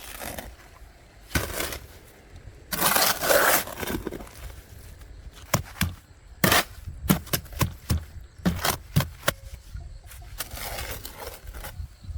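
Scraping in several spells, with a run of sharp knocks and taps in the middle.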